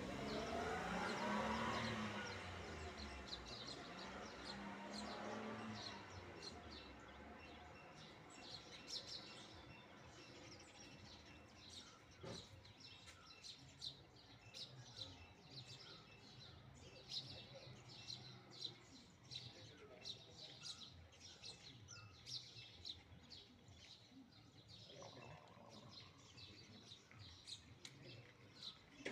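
Small birds chirping, with many short, high chirps in quick succession. A louder, lower-pitched sound runs through the first few seconds.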